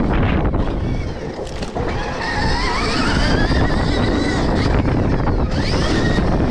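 Stark Varg electric motocross bike riding hard, its electric motor whine gliding up and down in pitch with the throttle, over heavy wind rush on the microphone. The whine climbs steadily from about two seconds in and rises again briefly near the end.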